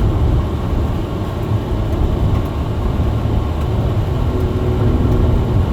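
Steady low engine and road rumble heard from inside a Chevy Malibu's cabin as it climbs a snow-covered road, the tires just starting to spin. A faint hum comes in about four seconds in.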